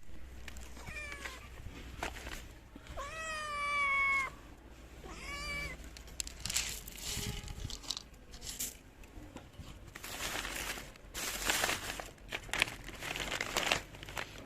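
Kitten meowing three times: a short call, then a long, louder meow of about a second, then another short call. After that come rustling, scratchy noises.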